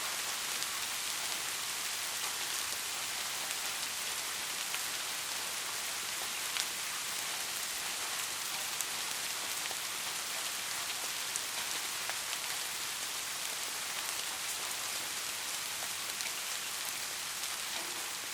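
Steady soft rain falling, a continuous hiss with scattered sharper taps of single drops hitting a surface.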